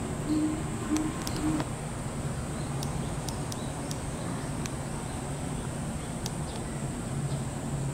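A bird calling with four short, low notes in the first second and a half, over a steady low hum and a steady high-pitched whine.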